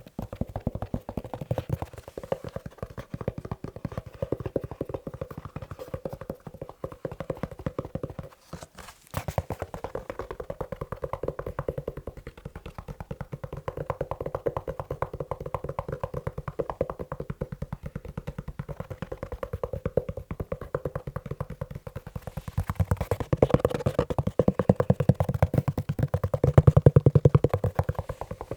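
Fast tapping on a leather shoe: a rapid, dense run of taps with a brief pause about eight and a half seconds in, getting louder near the end.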